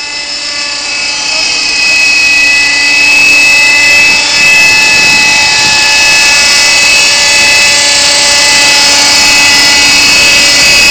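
Kyosho Nexas 30 RC helicopter's nitro glow engine and rotors, a high-pitched whine that grows louder over the first few seconds and then holds steady, as the helicopter is brought down to land.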